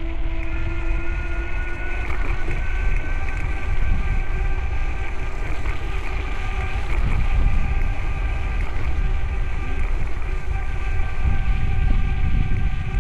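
Wind rumbling on the microphone during a bicycle ride, with several steady high tones held over it that change about two seconds in.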